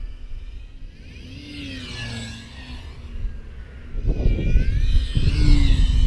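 Electric RC model warbird's motor and propeller whining as it flies past, the pitch rising and falling as it turns and passes. From about four seconds in, strong gusty wind buffets the microphone and becomes the loudest sound.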